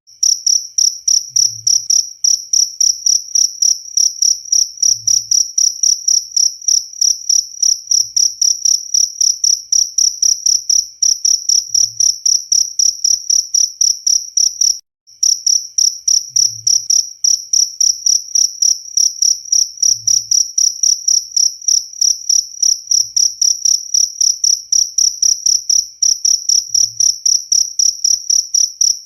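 Cricket chirping: a high, pure tone pulsed in a fast, even rhythm of several chirps a second, with a short break about halfway through.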